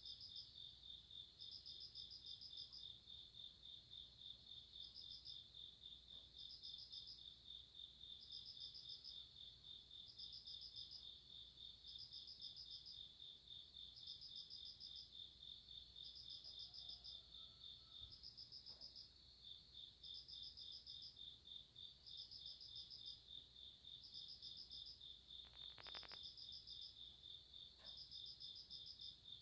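Faint chirping of summer-night grass insects: one keeps up a steady, rapid pulsing trill, while a higher trill comes in short bursts about once a second.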